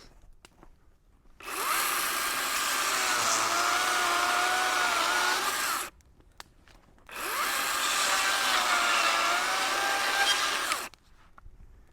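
Electric power tool motor running at full speed in two runs of about four seconds each, starting and stopping abruptly, with a short pause between.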